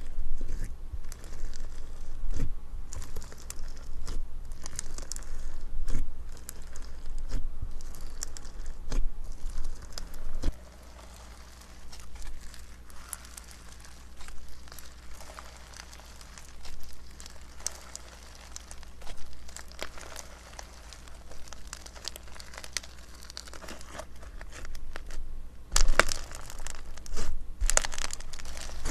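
Slime being squeezed and pressed by hand, crackling and popping with many small sticky clicks. The clicks are busier in the first ten seconds, sparser through the middle, and come in a louder cluster near the end.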